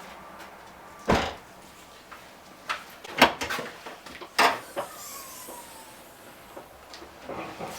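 Several sharp knocks and clunks, three of them loud, with smaller clicks between and a faint falling squeak midway.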